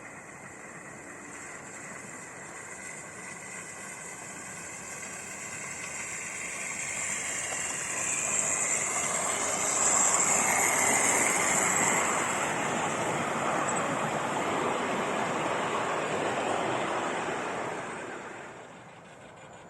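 Steam-hauled train passing: a rushing noise that swells over several seconds, holds, then drops away near the end.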